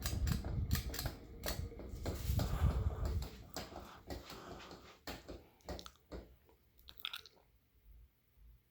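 Canarm P-36 spinner ceiling fan from 1991 spinning down after being switched off, with a low rumble and irregular clicking from the wobbling fan. The clicks thin out and fade away as it slows.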